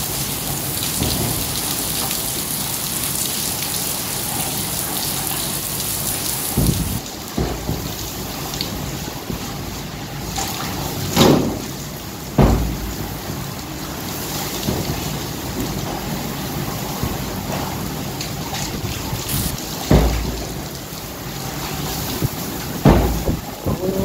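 Heavy rain pouring in strong, swirling wind, a steady rushing hiss broken about five times by sudden short low gusts buffeting the microphone.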